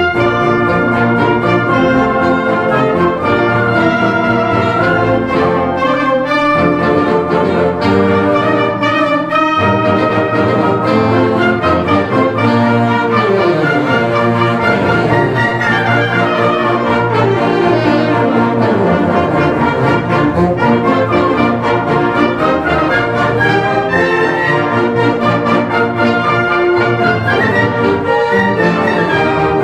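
Concert band playing, brass to the fore, with several long descending runs in the middle.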